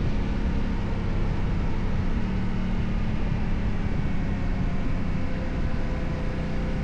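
Motorcycle riding at a steady pace: the Yamaha Ténéré 700's parallel-twin engine holds a constant hum under wind noise, with no change in speed.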